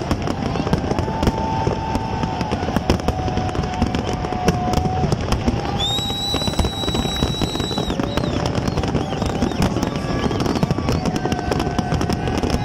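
Fireworks display at full barrage: a dense, continuous crackle of bursts and bangs. Long steady whistling tones sound over it, with a high shrill one about halfway through.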